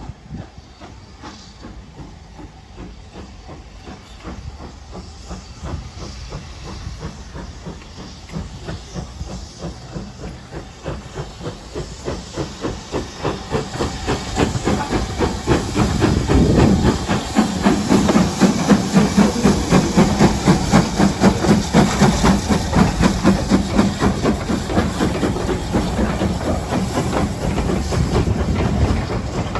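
Steam locomotive with its train drawing close, steam hissing over a quick rhythmic beat that grows steadily louder, loudest a little over halfway through, then easing slightly.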